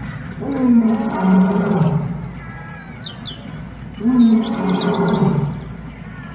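Two long, low roaring calls, each falling in pitch, about three and a half seconds apart, with a few short high chirps between them: the unexplained 'dragon roar' said to come from underground in Guizhou.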